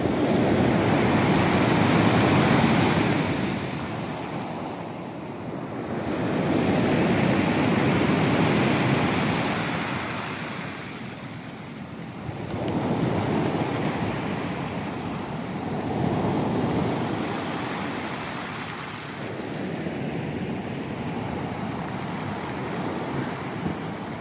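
Rough sea surf: waves breaking and washing in, swelling and falling away every four to six seconds.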